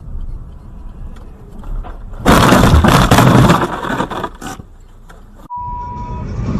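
Car crash: a low road rumble, then a sudden loud impact with crunching and clattering that lasts about two seconds before dying down. Near the end, a brief steady single-pitch tone.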